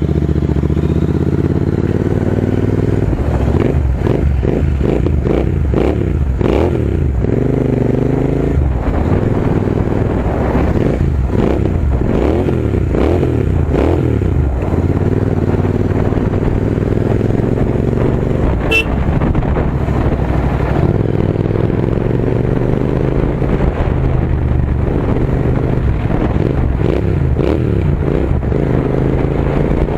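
Royal Enfield Continental GT 650's parallel-twin engine running through AEW TE 102 aftermarket exhausts with the dB killers removed, ridden with the engine pitch rising and falling repeatedly as the throttle opens and closes.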